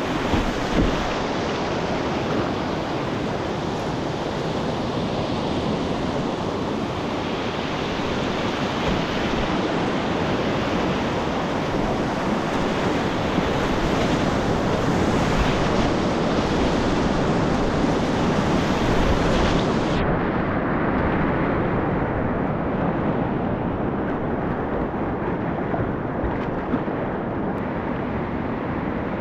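Rushing whitewater of a class III river rapid, heard from a kayak in the current, with wind on the microphone. About twenty seconds in, the sound abruptly turns duller, losing its high hiss.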